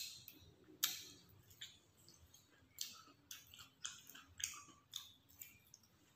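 Close-miked mouth sounds of chewing grilled chicken satay: a string of about nine wet clicks and smacks at an uneven pace, roughly one or two a second.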